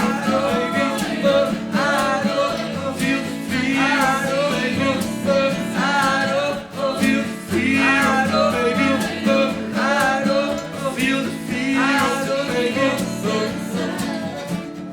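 Acoustic indie rock song: guitar accompaniment with a melody line that rises and falls in repeated phrases, no words sung.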